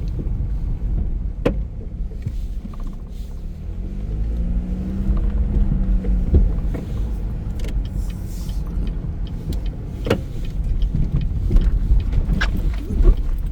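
Car driving over a rough, bumpy track: a steady low rumble with a few sharp knocks, and an engine note that rises and falls in the middle.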